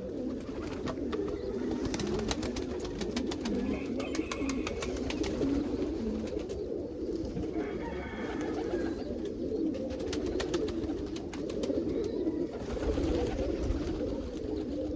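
Several domestic pigeons cooing continuously in a loft, with a quick run of sharp clicks and taps in the first few seconds.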